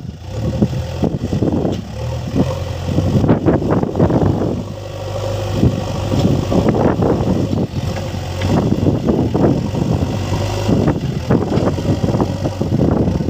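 Heavy diesel engine running steadily at low revs, with irregular knocks and clatter over it.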